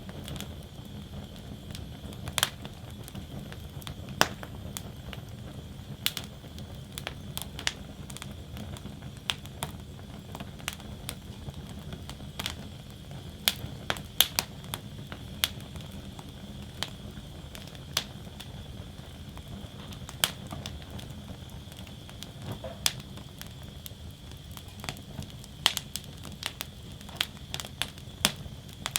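Wood fire burning in a fire basket: a steady low rush of flames with irregular sharp crackles and pops from the burning wood, coming more often near the end.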